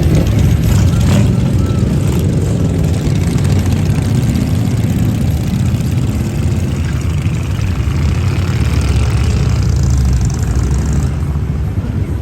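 Harley-Davidson motorcycle engine running steadily while riding, with wind rushing over the microphone; the wind noise drops away near the end.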